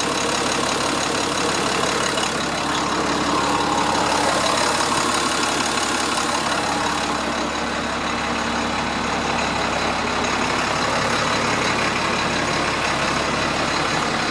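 International DT466 7.6-litre inline-six diesel idling steadily.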